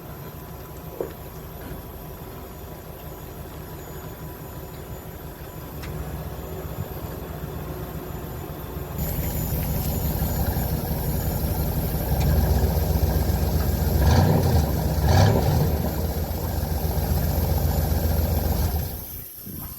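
1999 Chevrolet Suburban's V8 engine running while the truck is driven, getting louder as it pulls, then dying away near the end.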